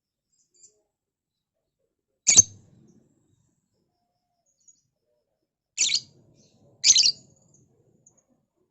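Lovebird giving three short, shrill chirping calls, about two seconds in, near six seconds, and again a second later.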